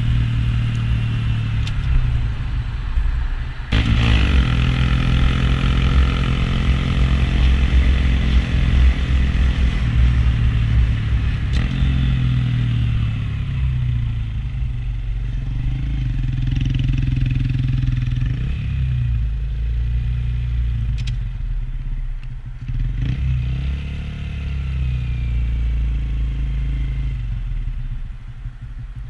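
Honda Grom's small single-cylinder four-stroke engine running while riding. A brief break a few seconds in is followed by the pitch climbing and falling as the bike accelerates and shifts, and it runs lower and quieter near the end as the bike slows.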